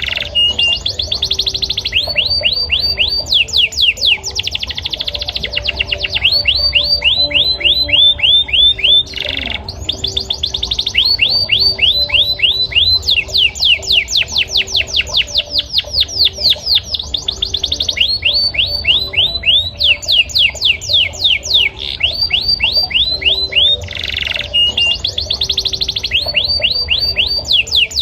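Male canary singing a long continuous song of fast trills, each a run of quickly repeated sweeping notes that changes to a new trill every second or two.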